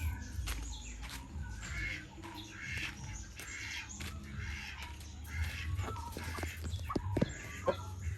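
Birds calling, a series of short, harsh calls spaced through the first five seconds, over a low rumble. A few sharp taps come later on.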